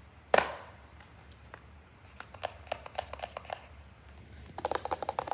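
Light clicks and taps of hands handling small boxed packaging: one sharp click just after the start, scattered taps in the middle, then a quick run of rapid tapping near the end.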